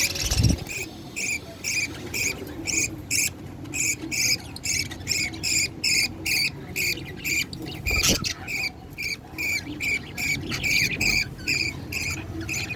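Budgie chicks begging while being fed: a steady, rhythmic run of short high cheeps, about three a second. A dull thump comes about half a second in and again about eight seconds in.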